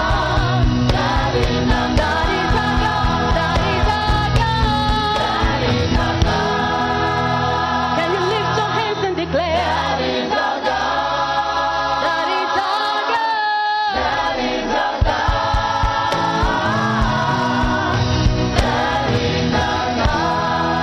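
A church choir singing a gospel song over instrumental backing. The low backing drops out for a couple of seconds about two-thirds of the way through, leaving the voices.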